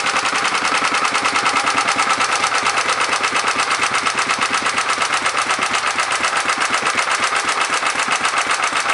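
1934 Briggs & Stratton Model A single-cylinder engine running steadily, driving a Quincy air compressor, its firing pulses coming in a fast, even rhythm. The governor holds it at a set speed for the compressor; the owner thinks the carburetor may need some attention, though it runs well.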